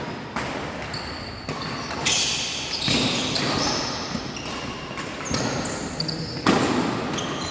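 Badminton rackets striking a shuttlecock during a rally, sharp hits at irregular intervals about half a second to two seconds apart, echoing in a large sports hall, with brief high squeaks between them.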